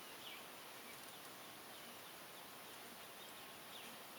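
Near silence: faint steady background hiss with a few faint, short bird chirps.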